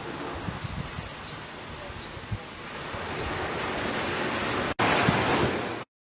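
Ocean surf washing on a beach with wind, and a run of short, high, falling chirps. After a brief break near the end the surf is louder, then it cuts off suddenly.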